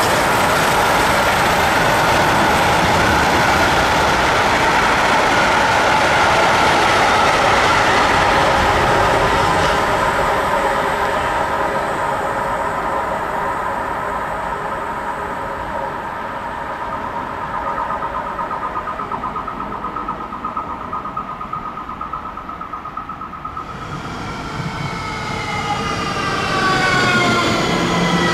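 A train running past on the track, a steady rumbling rush that eases off after about ten seconds. Near the end a cluster of whining tones glides in pitch as the sound grows louder again.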